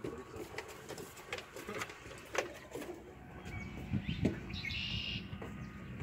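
Birds calling around a pond, over scattered light taps.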